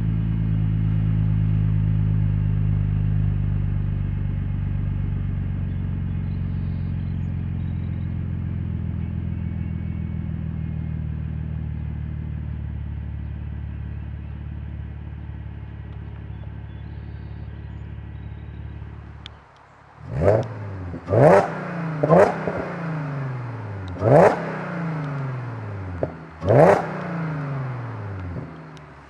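Audi S4's supercharged V6 idling through a custom exhaust with Borla Pro XS mufflers, an X-pipe and the resonators deleted, its level easing slowly. After a sudden break, the engine is blipped about five times in quick succession, each rev rising sharply and falling back.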